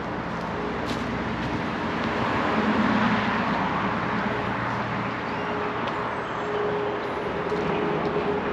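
A motor vehicle passing on the adjacent road, swelling to its loudest about three seconds in, over a steady background of road traffic with a hum that grows in the second half.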